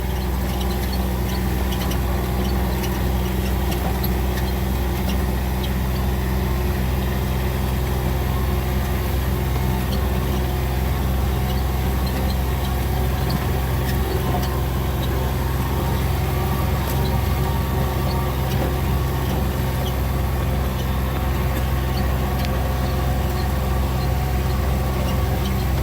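A vehicle's engine running steadily, a constant low hum with no change in speed.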